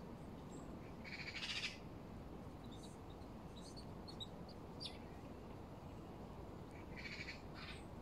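Birds calling: a short harsh call about a second in and two more near the end, with a few faint thin chirps between, over steady low background noise.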